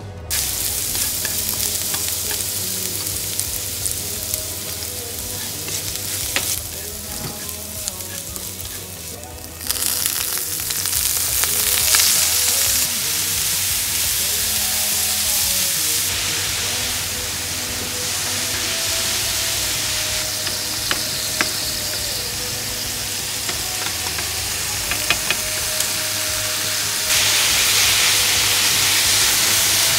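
Food sizzling and frying in oil in a nonstick frying pan, stirred with chopsticks, with a few sharp clicks. Julienned ginger and chili fry in sesame oil first. The sizzle gets louder about ten seconds in, once shredded burdock root is stir-fried, and louder again near the end, with beef in the pan.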